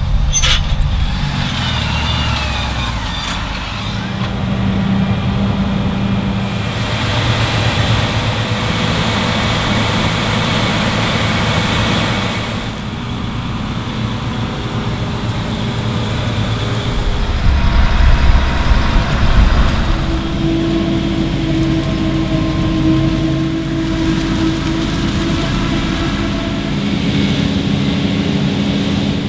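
Engines of heavy farm machinery, tractors and harvesters, running and working under load. The sound changes abruptly several times, one machine after another, with a louder stretch a little past halfway.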